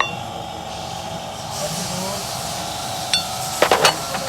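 Metal hand tools clinking and knocking against engine parts, a few sharp strikes near the end, over a steady background hum.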